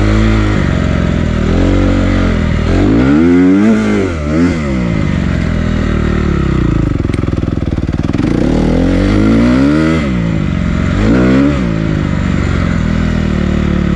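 Honda CRF250R dirt bike's single-cylinder four-stroke engine being ridden, revving up and falling back several times as the throttle is worked, with the biggest climbs about three and a half and eleven seconds in.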